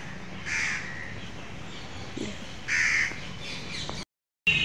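A bird giving two harsh, caw-like calls about two seconds apart, over a steady outdoor background; the sound cuts out abruptly near the end.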